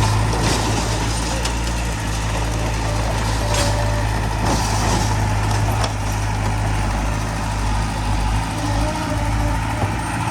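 Heavy diesel construction machinery running steadily with a deep engine hum, with a few brief noisy bursts in the middle.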